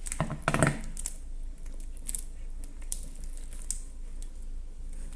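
A big mass of slime being handled and set down on a table: a cluster of sticky clicks and knocks in the first second, then scattered small clicks and pops.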